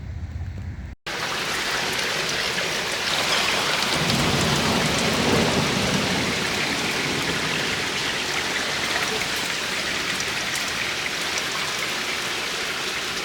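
Steady rain falling, an even hiss with scattered raindrop ticks, starting abruptly about a second in after a brief low rumble cuts off.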